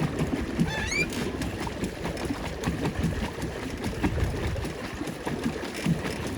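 Paddle boat underway: a steady, irregular churning and clatter from the pedal-driven paddle wheel. A short rising squeak comes about a second in.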